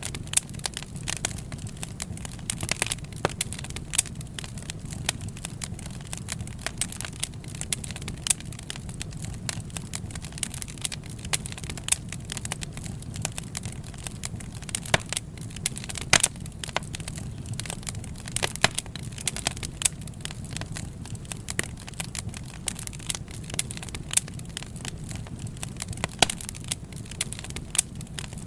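Wood fire crackling, with frequent irregular sharp pops and snaps over a low, steady rumble of the burning.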